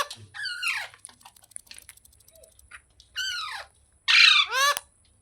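Pet rose-ringed (Indian ringneck) parakeet giving a few shrill calls, each falling in pitch, the loudest pair near the end.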